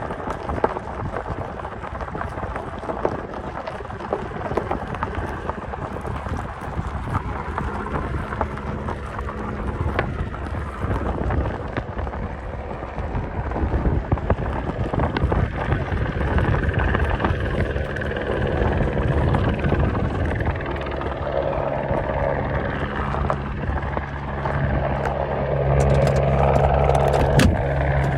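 Helicopter running, a rough rushing rumble with a steady low rotor hum that comes in about a quarter of the way through and grows louder over the last several seconds.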